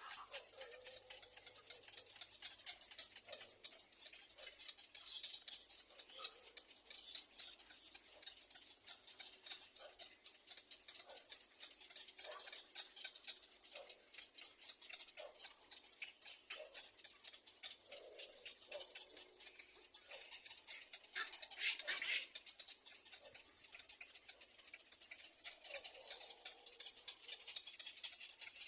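Little egret nest with chicks: faint, rapid dry ticking with a few short low calls scattered through it.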